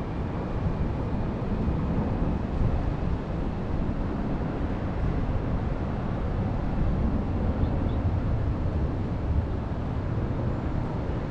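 Wind blowing over the microphone, a steady low rumble that swells and dips in gusts.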